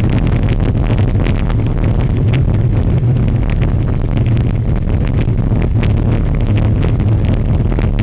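Steady low wind rumble on the microphone with frequent small rattles and knocks, as a cyclocross bike is ridden hard over rough ground.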